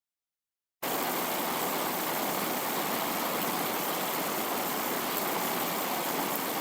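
A steady, even hiss of noise like static, starting abruptly a moment in and holding at one level without any pitch or rhythm.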